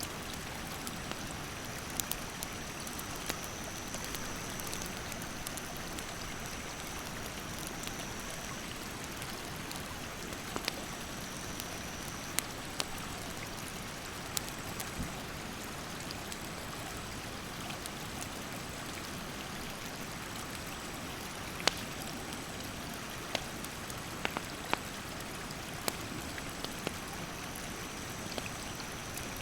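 Mountain stream rushing steadily, with burning firewood crackling in sharp, scattered pops. A thin high insect buzz comes and goes.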